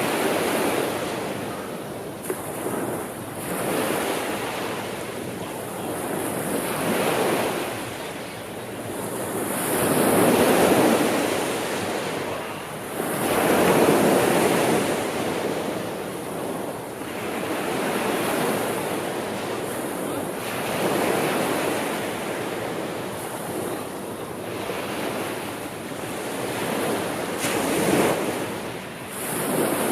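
Sea waves breaking and washing on a shore, swelling and falling away every few seconds, with some wind.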